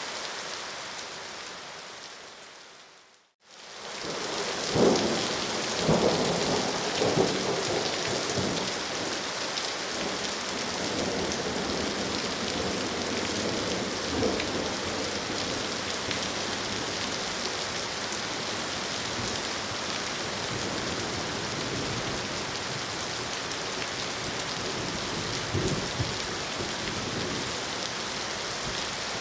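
Steady rain falling, which fades out to silence about three seconds in and fades back in. Thunder rumbles several times around five to eight seconds in, and once or twice more later.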